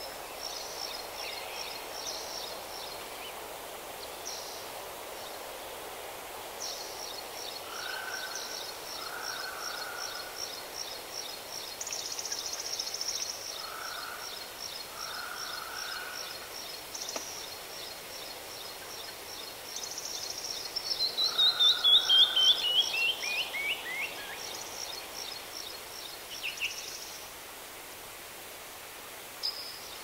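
Songbirds singing over a steady background hiss: a long, fast trill of high repeated notes through most of the clip, with short lower calls several times. The loudest part, about twenty seconds in, is a run of notes falling in pitch.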